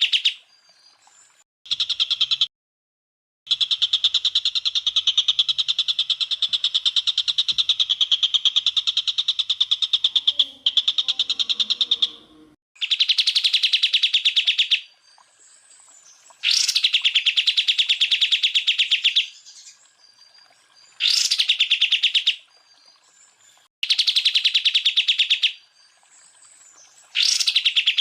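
Green leafbird (cucak ijo) singing in bursts of rapid, machine-gun-like repeated high notes ('tembakan'). About eight bursts, the longest running nine seconds or so, the others one and a half to three seconds with short pauses between.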